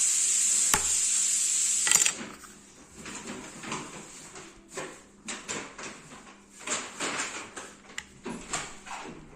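A steady hiss that cuts off with a sharp click about two seconds in, then irregular small plastic clicks and clacks of Lego bricks being handled and snapped together.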